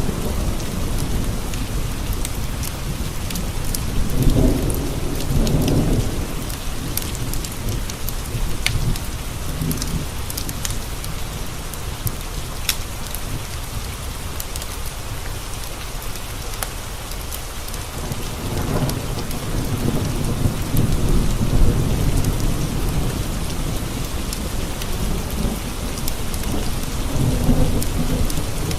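Steady rain pattering on windowpanes, with thunder rumbling three times: about four seconds in, again around the middle-to-late part, and near the end. Sparse sharp crackles of a wood fire in a fireplace sound over the rain.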